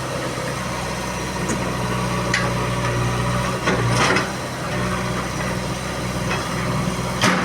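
Diesel engine of a JCB backhoe loader running steadily, with several short knocks from the working machine, the loudest near the end.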